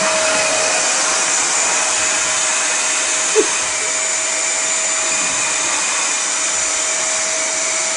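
Household vacuum cleaner running steadily, a constant whine over its rushing noise, with one brief short sound a little over three seconds in.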